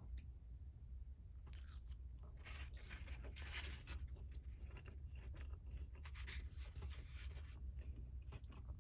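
Irregular light scraping and crunching of hands handling food and utensils, starting about a second and a half in, over a steady low hum.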